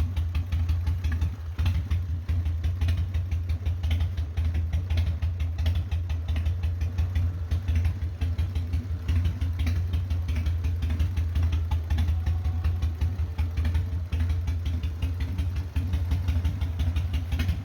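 A custom chopper's 80 cubic inch Evolution V-twin engine idling steadily, with a rapid, even exhaust pulse.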